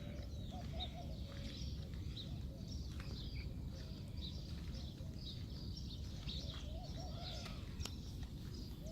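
Several songbirds chirping and calling in quick short notes throughout, with a lower warbling call twice, over a steady low background rumble.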